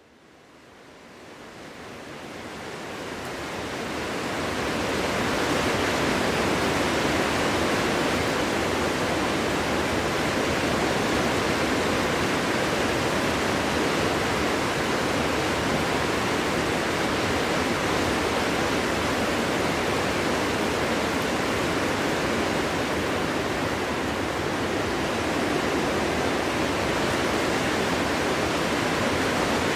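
Wind blowing through a forest: a dense, even hiss that fades in over the first five seconds or so and then holds steady.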